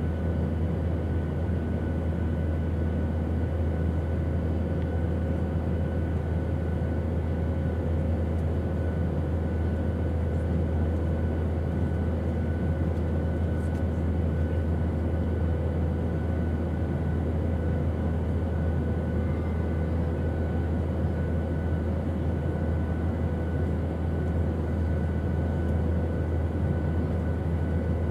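Airplane engine noise: a steady, unchanging drone with a deep rumble and a few faint, even whines above it.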